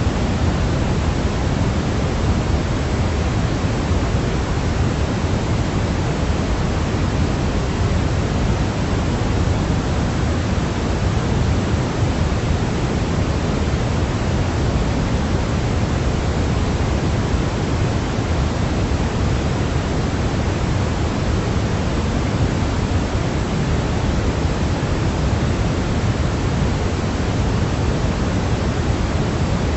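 Steady white noise for baby sleep: an even, unchanging hiss with most of its weight in the low end, closer to pink noise than pure white.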